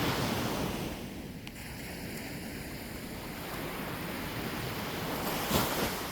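Sea waves breaking and washing on the shore, swelling at the start and again near the end, with some wind on the microphone.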